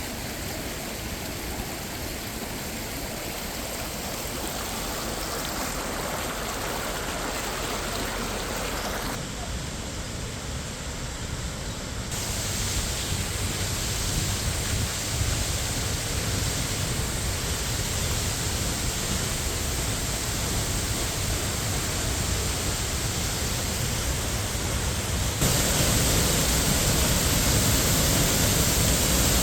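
Rushing water of Minnehaha Creek and its waterfall: a steady, even noise that jumps abruptly louder about twelve seconds in and again near the end.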